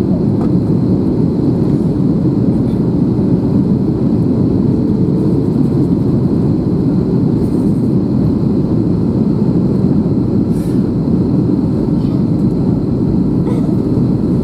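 Airbus A321 jet engines and airflow: a steady low roar in flight, with a few faint clicks.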